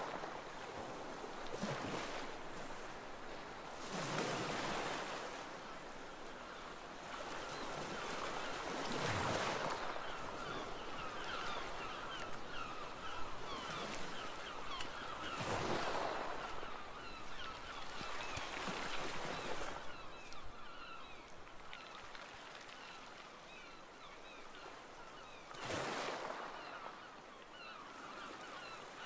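Seaside ambience: waves washing onto a shore, swelling every few seconds, with many short bird calls over the top.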